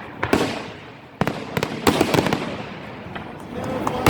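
Aerial fireworks shells bursting one after another, a string of sharp bangs each trailing off in crackle and echo, several close together in the middle and a loud one at the end.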